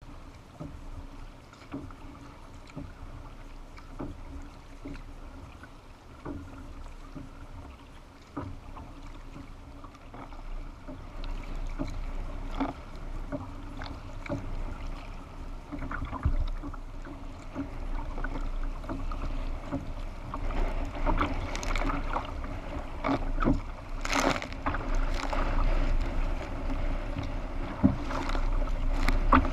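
Sea kayak being paddled in wind and rain: repeated paddle strokes and water slapping at the hull, with wind rumbling on the camera microphone and sharp knocks now and then. It grows louder and busier through the second half.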